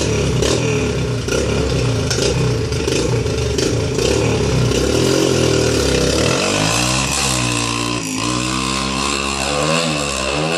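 Yamaha TTR125LE dirt bike's small single-cylinder four-stroke engine running. It holds a steady pitch for about six seconds, then revs up and down several times before dropping off at the end.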